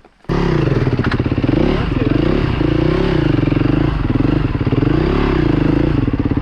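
Dirt bike's single-cylinder four-stroke engine (KTM 350 EXC-F) running close by. It cuts in suddenly a moment in, its pitch rises and falls with the throttle several times, and it holds steady near the end.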